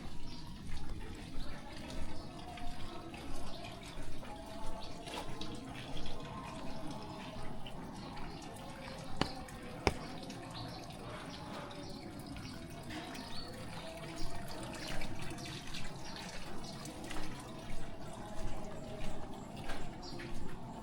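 Steady rain with footsteps splashing on a wet road at walking pace, about one and a half steps a second, pausing for a few seconds in the middle.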